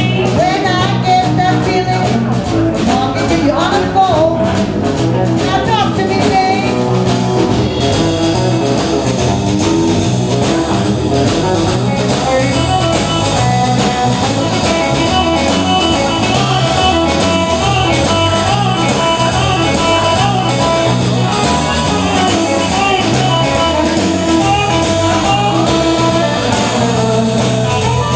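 A live band playing a blues number, with guitar to the fore.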